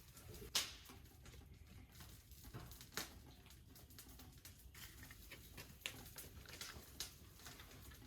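Small fire of twigs and dry cedar leaves crackling faintly in a compact secondary-combustion wood stove, with scattered sharp pops, the loudest about half a second in.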